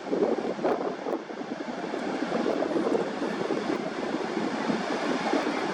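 Steady rushing noise of wind and surf on a beach.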